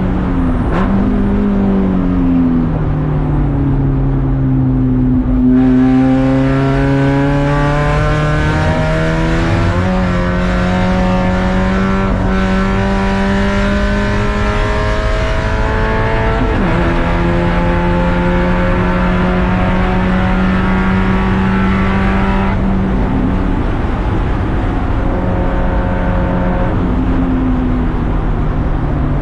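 Race car engine under way. The revs fall for the first few seconds, then climb steadily under acceleration for about ten seconds. They drop sharply with a gear change, hold steady, and ease off near the end.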